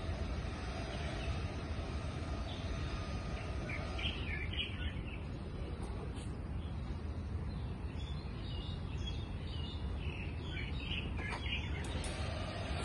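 Birds chirping over a steady low background rumble, the chirps coming in two clusters: a few seconds in, and again past the middle.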